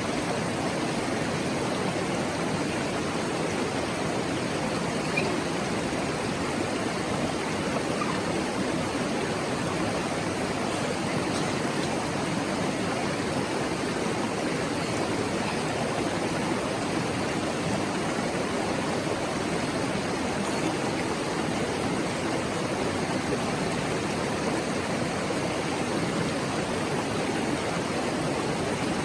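River water babbling steadily over rocks: an even, unbroken rushing.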